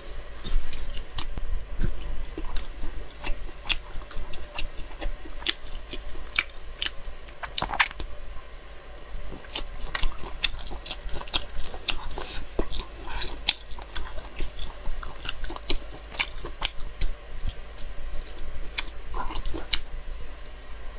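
Close-miked chewing of grilled meat skewers: a dense run of wet, sharp mouth clicks and smacks with bites throughout.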